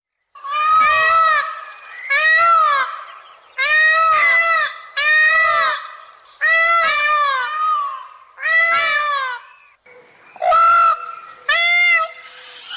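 An animal calling loudly in a series of about eight calls, each about a second long and rising then falling in pitch.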